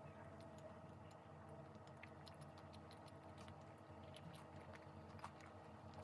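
Near silence: room tone with a low steady hum and faint, scattered small clicks.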